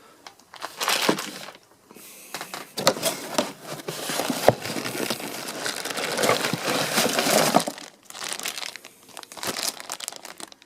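Packaging crinkling and rustling as parts are pulled out of a box, with one sharp knock about halfway through.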